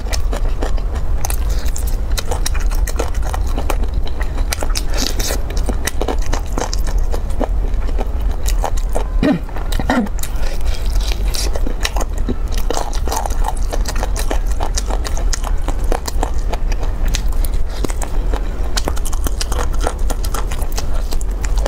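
Close-miked chewing and biting of sauce-glazed pork ribs, with the meat tearing from the bone: a dense run of small wet clicks and crackles over a steady low hum.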